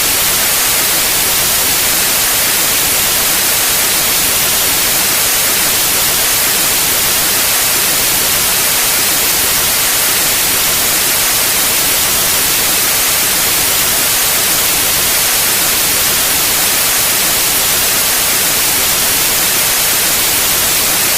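Pure white noise: a steady, even hiss, brightest in the highs, with no change from start to end.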